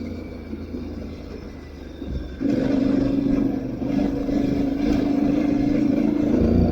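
Aprilia Tuareg 660's parallel-twin engine running at low revs, then opening up sharply about two and a half seconds in and pulling at steady, higher revs.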